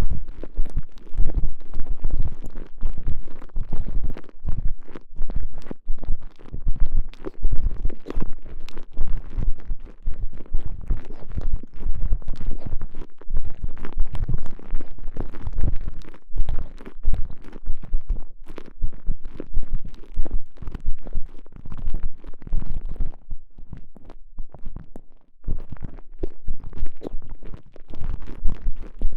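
Muffled, squishy squeezing and rubbing of a stretchy TENGA Egg sleeve with a microphone pushed inside it, in quick irregular strokes.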